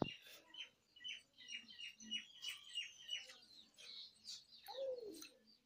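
A small bird chirping: a quick run of short high chirps, about five a second, faint against a quiet background.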